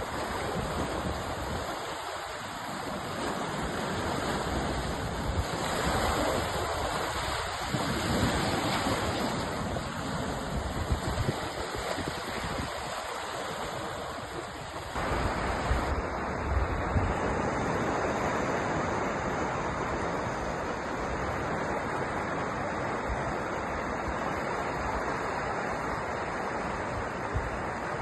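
Sea surf washing in steadily, a continuous rushing that swells and eases, its tone changing abruptly about halfway through.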